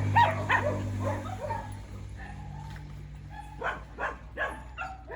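Dogs barking and yipping: a burst of short barks at the start, then another run of barks about three and a half seconds in, over a steady low hum that fades out partway through.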